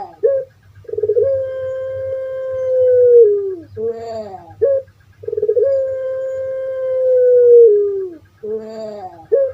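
Puter pelung (long-calling ringneck dove) singing: two long, drawn-out coos of about three seconds each that drop in pitch at the end, each led in by short rattling notes.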